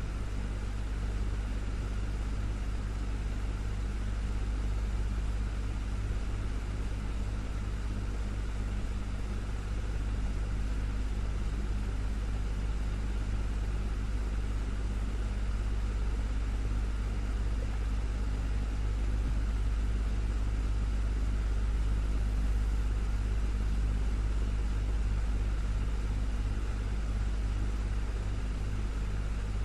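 Desktop fan running steadily: a low motor hum under an even whoosh of moving air, with no change in speed.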